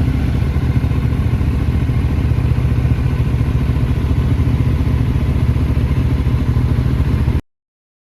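Kawasaki Z900's inline-four engine idling steadily with a fast, even exhaust pulse. The sound cuts off abruptly near the end.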